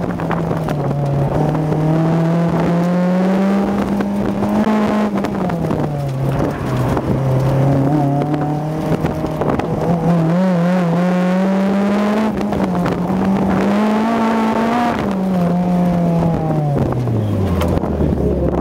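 Honda S2000's four-cylinder engine heard from inside the cabin as the car is driven hard through an autocross course, its pitch rising and falling with the throttle, with tyres squealing at times through the turns. Near the end the engine note drops steadily as the car slows.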